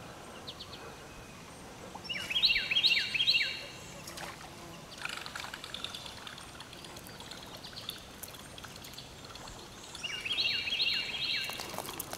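A songbird singing a short phrase of quick, repeated downward-slurred notes, twice: about two seconds in and again about ten seconds in.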